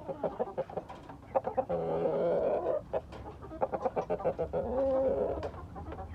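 Chickens clucking in quick short notes, with two longer drawn-out calls, one about two seconds in and one near five seconds.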